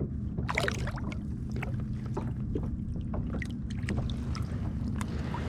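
Water sloshing and small knocks against a fishing kayak's hull, with a short splash about half a second in.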